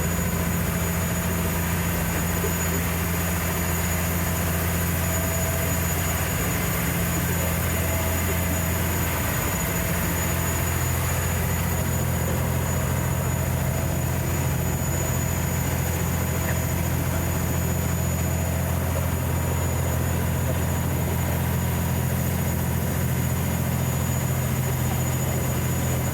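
Fast ferry's engines running at a steady speed: a deep, even drone with a faint thin high whine over it. About ten seconds in, the pitch of the drone shifts slightly.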